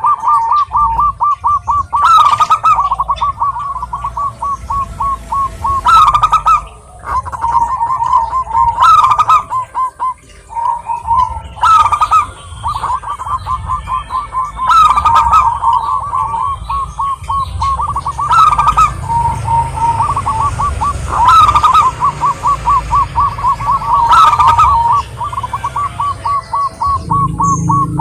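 Zebra dove (perkutut) singing: phrases of rapid cooing notes, each with a sharp opening note, starting again about every three seconds.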